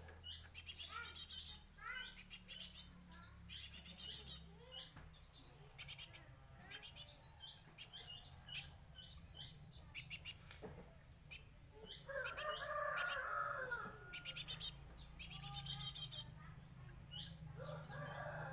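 Pet birds chirping: short downward-sliding chirps throughout, with several bursts of rapid, high repeated notes.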